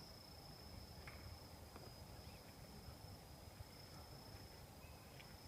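Near silence, with a faint steady high-pitched tone held without a break and a few faint ticks.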